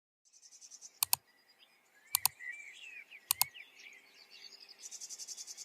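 Wild birdsong with warbling chirps and a high, fast trill, broken by three sharp double clicks about a second apart.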